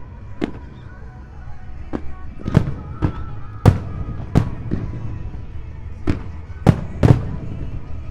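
Aerial firework shells bursting at an irregular pace, about a dozen sharp bangs over a continuous low rumble.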